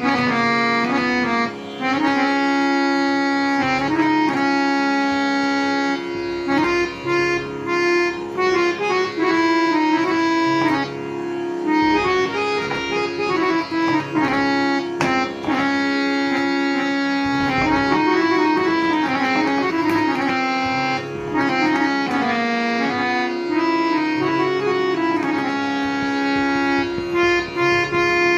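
Harmonium playing a melody over a sustained drone, its reeds sounding steady held notes that move in short phrases.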